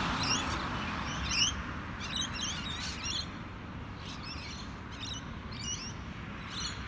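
Birds chirping in short quick bursts of notes, repeating every half second or so, over a low steady background rumble.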